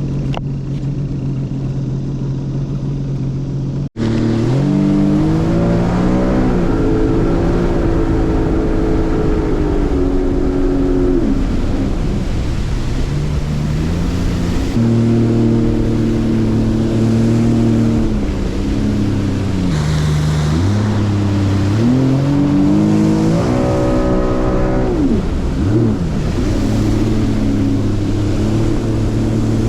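Boat engine running at speed, its pitch rising and falling several times as the throttle is opened and eased. A steadier, lower engine drone plays for the first few seconds before an abrupt cut about four seconds in.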